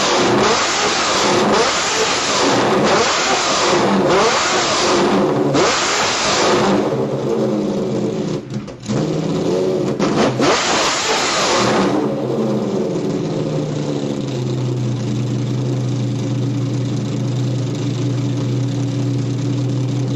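Ferrari F50's V12 through a Larini race exhaust, revved in quick repeated blips that rise and fall in pitch, with one more rev around ten seconds in. About twelve seconds in it settles to a steady idle.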